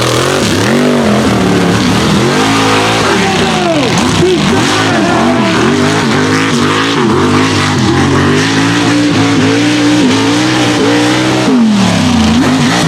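Mega truck's engine revving hard, its pitch rising and falling again and again as the throttle is worked. Near the end the pitch dips deep, then climbs again.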